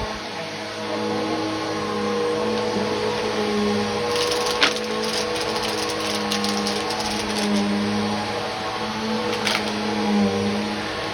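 Vacuum cleaner running with a steady pitched motor hum. A run of sharp clicks and crackles comes in about four seconds in, and there is one more click later.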